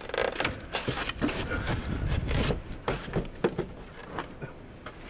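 Irregular rubbing, scraping and light knocking sounds at close range, with no engine running.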